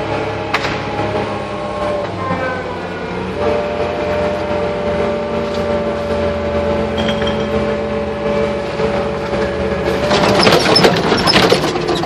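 Tractor engine running steadily, its pitch stepping up slightly about three and a half seconds in. Near the end a loud burst of clattering and scraping breaks over the engine sound.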